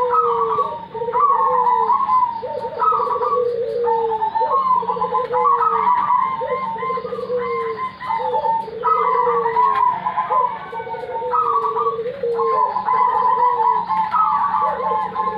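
Several zebra doves cooing back and forth over one another, their stuttering, trilled coo phrases coming one after another without a break. The coos sit at two pitches, a lower set and a higher set, overlapping and alternating as the birds answer each other.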